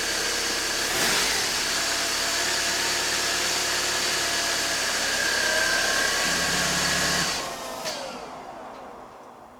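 BMW 318i (E46) four-cylinder engine idling steadily, then switched off about seven seconds in, its tones sliding down as it winds to a stop.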